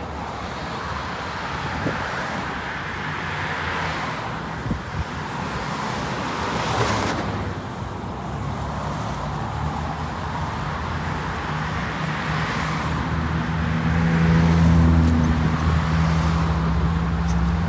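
Road traffic: a steady rush of wind and road noise, with a car engine's low hum building in the last few seconds and loudest near the end.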